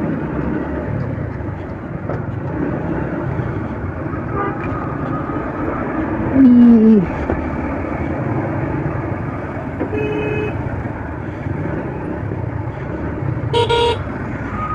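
Steady wind and engine noise of a motorbike riding through heavy road traffic, with vehicle horns honking: a loud one falling in pitch about six seconds in, and shorter honks near ten and fourteen seconds.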